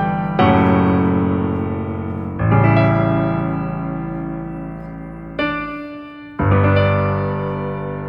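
Background piano music: slow sustained chords, struck about every two seconds and left to ring and fade.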